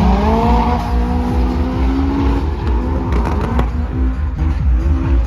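Drift car's engine held at high revs, its note steady and then easing a little lower, with a low rhythmic thumping underneath.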